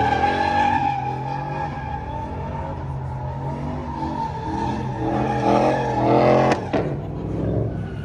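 Truck engine revving, with tires squealing as the truck is driven sideways; the revs climb and fall about five to six and a half seconds in, followed by a sharp knock.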